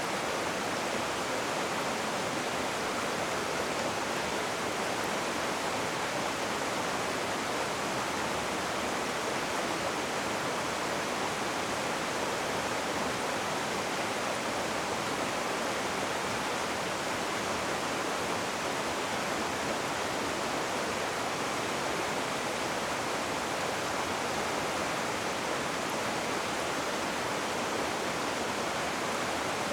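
River water rushing, a steady, even noise without break.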